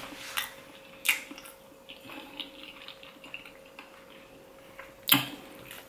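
A person chewing food close to the microphone, with wet mouth clicks and smacks; sharper smacks come about half a second and a second in, and the loudest about five seconds in.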